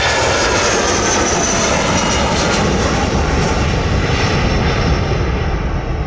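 Jet airliner's engines passing close: a loud, steady rush of jet noise with a faint high whine that falls slightly in pitch in the first second.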